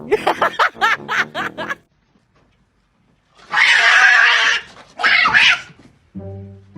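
An animal calling in quick cries that waver up and down in pitch, then, after a short silence, two hissing sounds, the first about a second long and the second shorter. Music comes in near the end.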